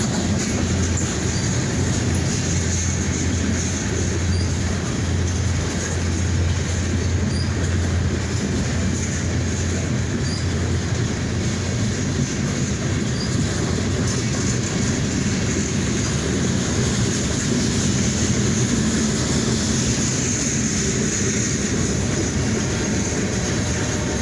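Freight train rolling by on steel rails, a steady low rumble of the wheels with a thin, high, continuous squeal over it.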